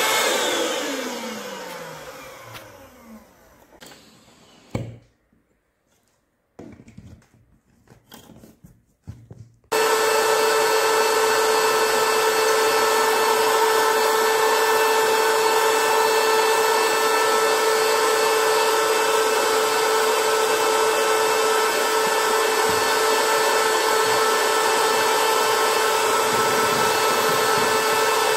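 Battery-powered portable electric air pump switched off, its motor spinning down with a falling whine over a few seconds. A few faint knocks follow, then about ten seconds in it starts again abruptly and runs steadily with a high hum.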